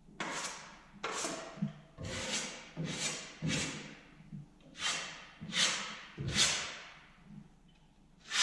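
A series of about ten scraping strokes by hand, roughly one a second, each starting sharply and fading out.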